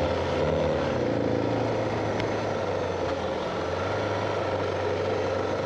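Suzuki DR650 single-cylinder motorcycle engine running steadily, a low hum under a steady rushing noise.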